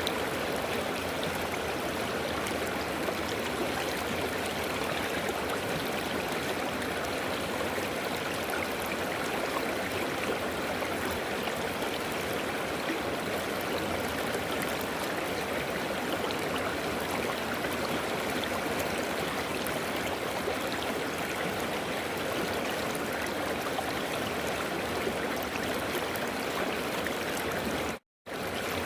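River water flowing and rushing steadily. It cuts out to silence for a split second near the end, then carries on.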